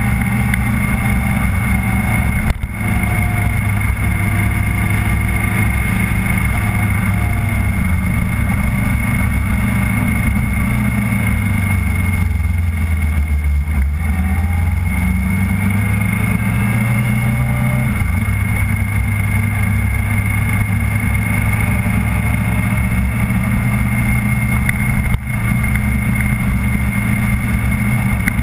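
Motorcycle engine running at an easy cruising pace, heard from a camera mounted on the bike. Its pitch sags and then climbs again through a bend about halfway, and the sound drops out briefly twice.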